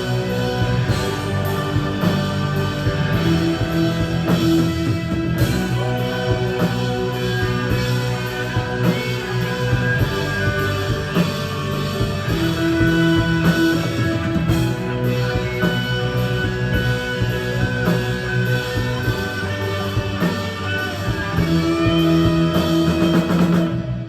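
Rock band playing, with electric guitars over a drum kit; the music cuts off abruptly at the end.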